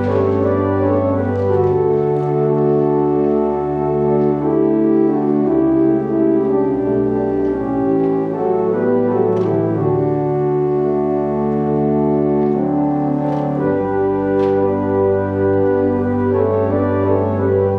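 Church organ playing slow, held chords over a bass line that moves to a new note every few seconds.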